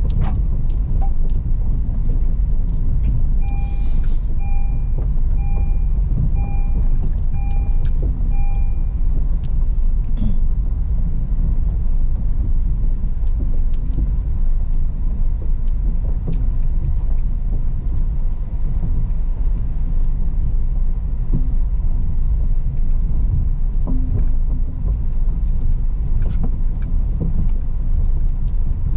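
A car driving over a rough, rocky unpaved road: a steady heavy low rumble of engine and tyres with scattered knocks. A few seconds in, a short electronic warning chime beeps about seven times in an even rhythm, then stops.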